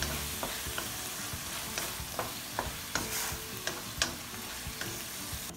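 Lamb mince with peas sizzling in a metal wok while a wooden spatula stirs it, scraping and knocking against the pan at irregular intervals.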